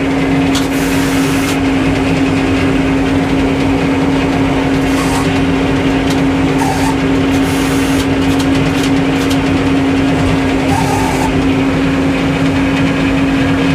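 Sawmill engine running steadily with a constant hum.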